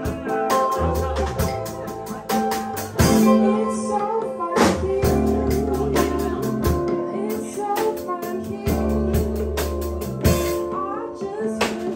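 Live band music: a singer over guitar and drums, with a steady beat.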